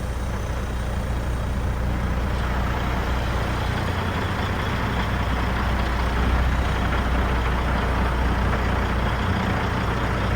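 Semi truck's diesel engine idling while the air-ride suspension bags are dumped: a steady hiss of escaping air over the engine's low drone.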